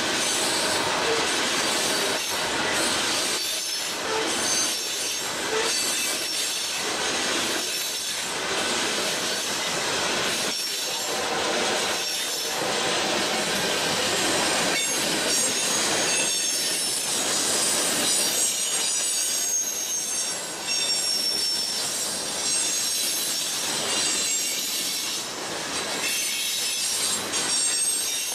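Freight cars, covered hoppers and tank cars, rolling steadily past over the rails with a recurring clack of wheels over the track. A thin, high wheel squeal comes and goes and is strongest a little past the middle.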